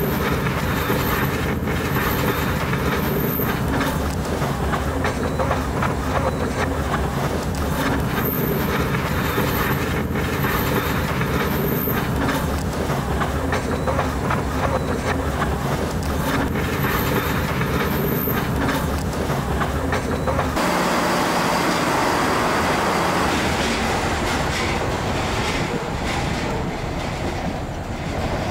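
Diesel passenger train running on the rails, heard from aboard: a steady rumble with wheel clatter and a thin high whine that comes and goes three times. About twenty seconds in, the sound changes abruptly to a different steady rumble.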